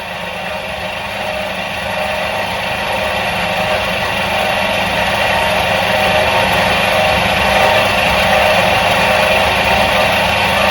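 Electric motor of a 1977 Soviet washing machine running with a steady hum and whirr, growing louder over the first few seconds and then holding even.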